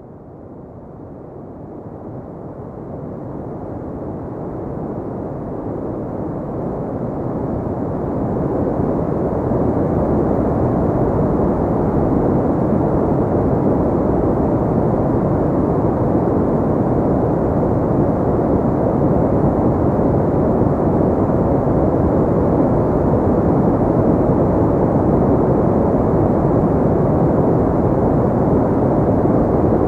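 A steady, deep white-noise track with most of its energy low and little hiss on top. It swells up gradually over the first ten seconds, then holds even.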